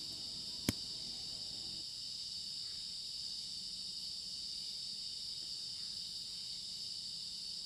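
Steady chorus of crickets and other insects in a night-time forest, with one sharp click under a second in.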